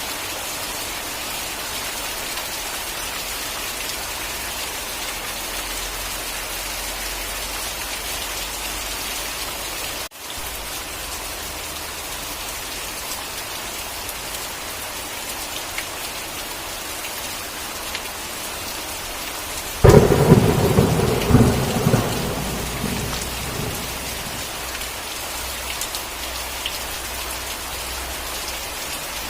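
Steady rain falling, with a momentary break about a third of the way in. About two-thirds of the way through, a sudden close thunderclap cracks, then rumbles and fades over a few seconds while the rain continues.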